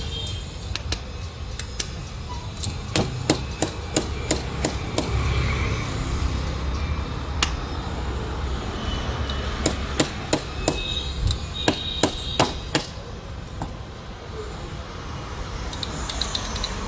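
Hammer tapping on metal parts of a car starter motor under repair: sharp strikes in irregular runs, some ringing briefly.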